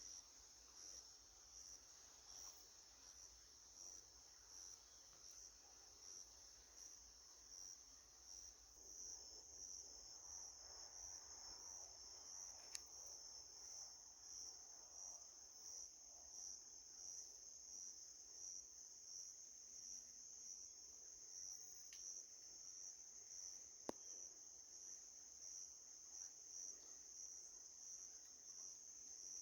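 Faint insect chorus: a steady, high-pitched pulsing trill. A couple of sharp clicks stand out near the middle and later on.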